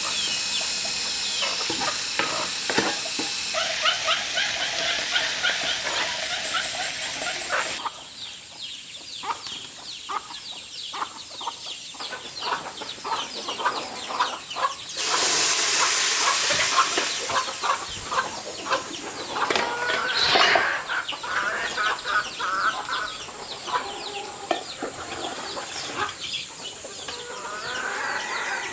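Chickens clucking and calling over a steady high-pitched hiss, the sound changing abruptly several times.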